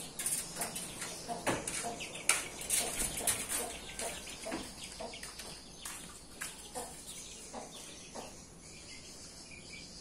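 Caged birds chirping: a rapid string of short, sharp calls, busy through the first half and thinning out toward the end.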